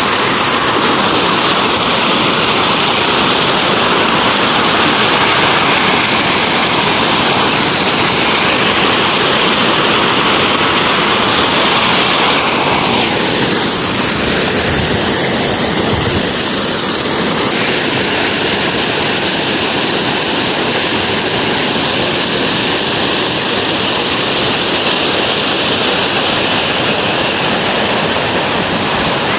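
Waterfall: a loud, steady rush of falling water, its tone shifting briefly about halfway through.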